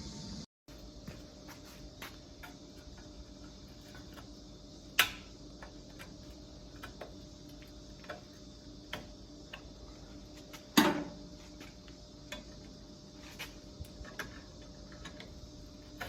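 Hand tools at work on a car's exhaust system: scattered light clicks and taps, with two sharper knocks about five seconds in and again near eleven seconds.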